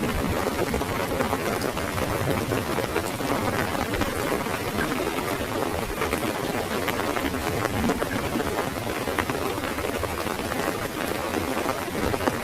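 Heavy rain falling on an umbrella overhead: a steady, dense patter of many drops that doesn't let up.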